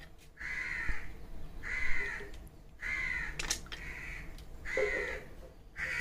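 A bird calling over and over, about six calls roughly a second apart.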